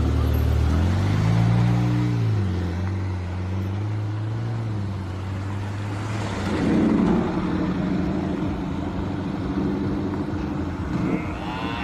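Ferrari F8 Tributo's twin-turbo V8 idling, with a short blip of revs about a second in that rises and falls back to idle. A louder swell of engine and exhaust noise follows around the middle.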